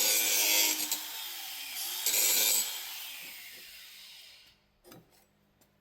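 Angle grinder with a grinding wheel grinding plasma-cutting dross off a cut part in two short passes. The grinder is then released and spins down, fading away. A short knock follows.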